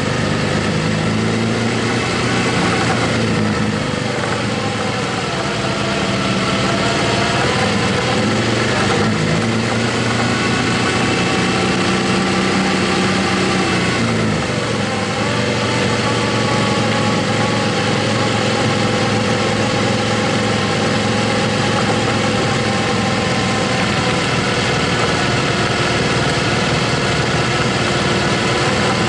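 Motorcycle engine running while riding, its pitch shifting up and down with throttle and gear changes and dropping about halfway through, over a steady rushing noise.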